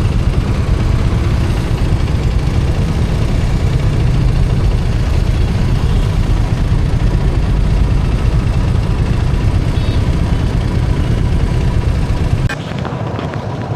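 Riding noise from a moving motorcycle: a loud, steady low rumble of wind buffeting and engine. The rumble drops off suddenly about twelve and a half seconds in.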